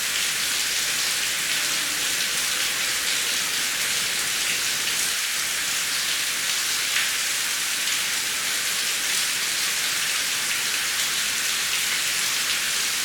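Heavy rain falling steadily: a dense, even hiss with scattered drop ticks and no thunder.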